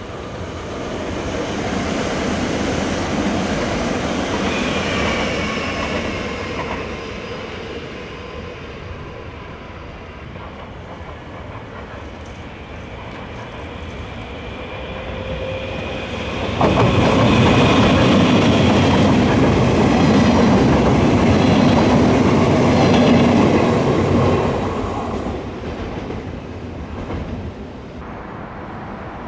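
Two Dutch electric passenger trains pass one after the other. First a Sprinter multiple unit runs by, its high wheel squeal falling in pitch. Then, starting sharply a little over halfway through, a double-deck train passes more loudly, with wheel rumble and high squealing tones for several seconds.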